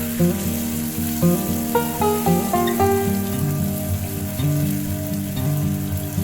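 Food sizzling as it fries in oil in a pan, under a background music track of steady melodic notes.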